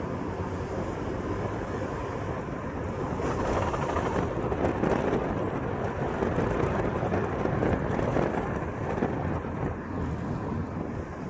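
2004 Ford Freestar minivan under way with its noise on acceleration, a dense rumbling noise that swells a few seconds in and eases off near the end. Replacing the CV axles did not cure this noise.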